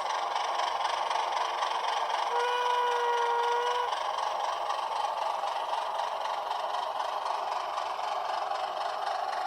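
LokSound V5 sound decoder in an HO scale Atlas ALCO HH600/660 diesel switcher, playing its diesel engine sound through a small sugar cube speaker. About two seconds in, a single steady pitched tone sounds for about a second and a half.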